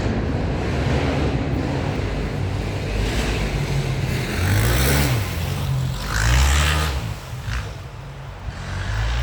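Road traffic passing, with vehicle engines rising and falling in pitch as they go by over a steady rumble, loudest a little past the middle.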